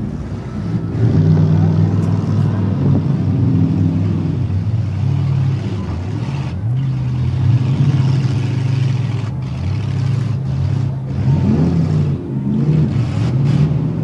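Demolition derby cars' engines running and revving, the engine pitch stepping up and down as the drivers accelerate and back off, with a rising rev about eleven seconds in.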